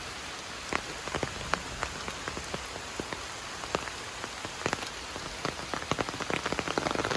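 Steady rain falling, a soft hiss with many separate drops striking close by. The drop hits grow denser toward the end as the rain picks up.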